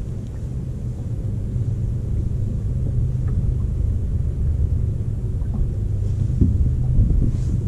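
Wind buffeting the microphone: a steady low rumble that grows louder, with stronger gusts near the end.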